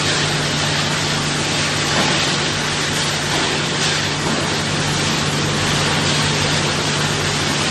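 Wood pallet hot pressing machinery running: a steady low hum under a loud, even hiss that does not change.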